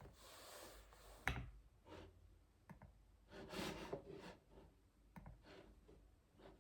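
A few scattered keyboard keystrokes, irregular rather than steady typing, with one sharper click about a second in and soft rubbing noises between the clicks.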